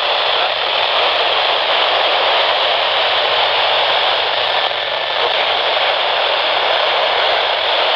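Steady radio static hiss from a receiver, with the warning broadcast's voice lost in the noise: the signal has faded out.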